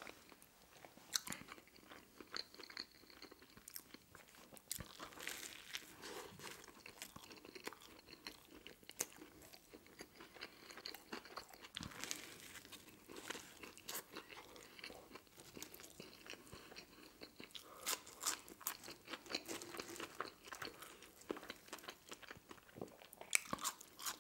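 Close-miked eating sounds: crunching bites into a toasted sandwich roll and steady chewing, with irregular crisp crackles that come thicker near the end.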